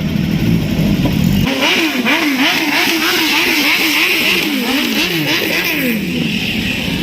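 Motorcycle engines in a superbike group ride. About a second and a half in, an engine is revved up and down over and over, its pitch rising and falling about twice a second before dropping away near the end.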